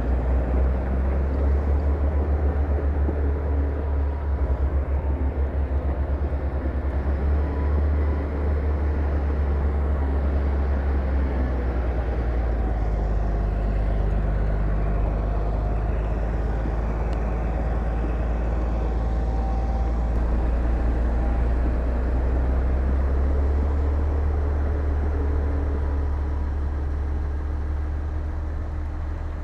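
Heavy diesel earthmoving machinery running under load with a steady, deep engine rumble, easing slightly near the end.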